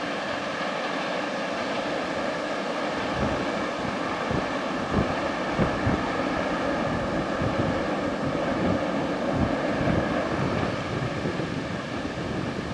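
Freight train of tank wagons rolling away on the rails: a steady rumble of wheels and rail noise, easing slightly near the end, with wind buffeting the microphone in irregular low thumps.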